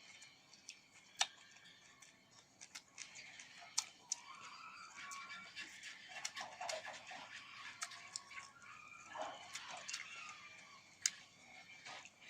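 Close-up eating sounds of someone biting and chewing mango, with a few sharp clicks, the loudest about a second in, near four seconds and near eleven seconds.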